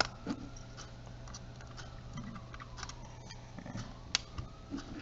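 Faint, scattered small clicks and taps of a precision screwdriver working on the tiny screws and plastic case of a camcorder being taken apart, over a low steady hum that fades out about three-quarters of the way through.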